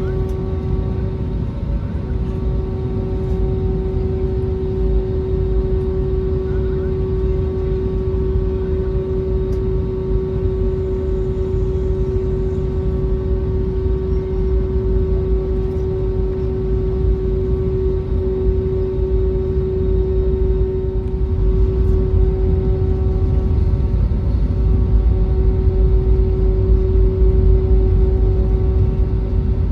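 Airbus A320neo cabin noise while taxiing onto the runway: the engines running at taxi power with a steady hum over a low rumble, growing a little louder in the last several seconds.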